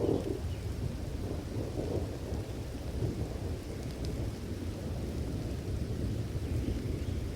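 Thunderstorm: a low, rolling rumble of thunder that swells and ebbs over steady rain.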